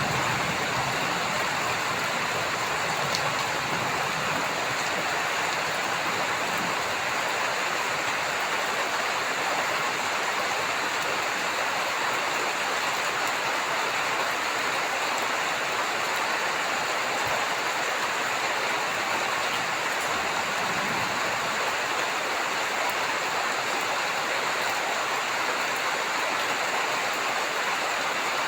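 Heavy rain falling steadily, an even hiss of water. A low rumble of thunder dies away just at the start.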